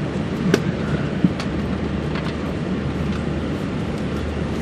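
Steady low hum inside the cabin of a parked Airbus A340-600, with a few short sharp clicks about half a second, a second and a quarter and a second and a half in.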